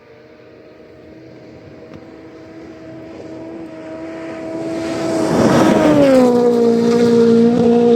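A steady engine drone grows louder for about five seconds, drops in pitch as it passes about six seconds in, and then holds loud at the lower pitch.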